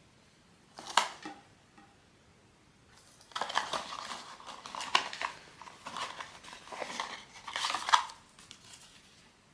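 Handling of a blind-box toy's packaging and hard plastic figurine: one sharp click about a second in, then about five seconds of crackly rustling broken by hard plastic clicks and taps, the loudest near the middle and near the end.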